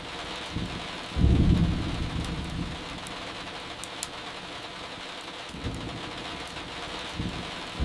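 Steady rain with rolls of thunder: a loud low rumble about a second in that dies away over a second or so, a fainter one around six seconds, and another loud one starting right at the end. A few faint crackles of burning firewood tick over the rain.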